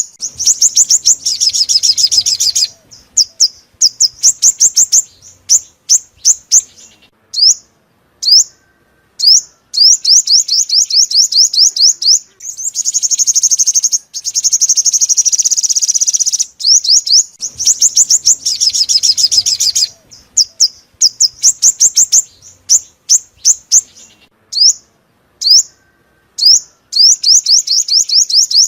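Sunbird song: loud, high, rapid trills of quick downslurred notes in bursts of a second or two, broken by short runs of single notes. The phrase sequence repeats about every seventeen seconds, a looped lure recording.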